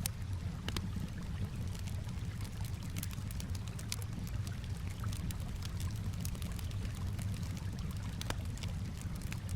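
Campfire crackling, with irregular sharp pops and snaps, over a steady low wash of calm water lapping.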